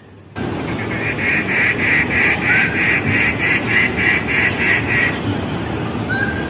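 A bird calling a steady series of about a dozen harsh, nasal notes, roughly three a second, which stops about five seconds in. Steady low background noise runs underneath, with a few faint high chirps.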